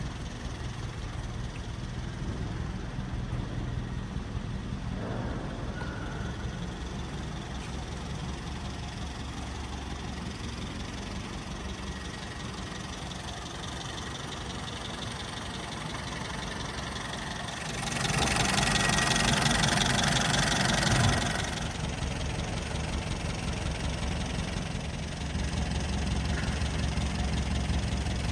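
1962 Sunbeam Rapier IIIA's engine idling steadily, with a louder rushing noise for about three seconds past the middle.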